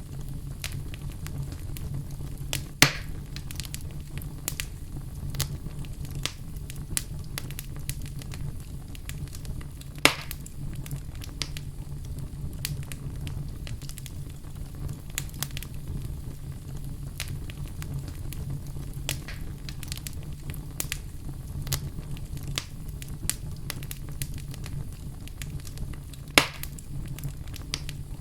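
Wood fire burning in a fireplace: a steady low rumble of flames with frequent irregular crackles and three louder pops, about 3, 10 and 26 seconds in.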